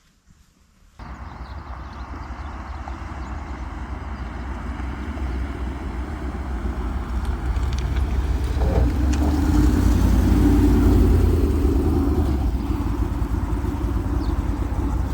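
Car engine running with a steady low rumble, starting abruptly about a second in and growing louder toward the middle.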